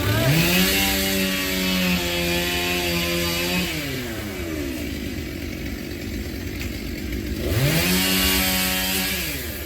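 Two-stroke chainsaw revved up to full throttle, held steady for about three and a half seconds, dropping back to idle, then revved again for under two seconds near the end.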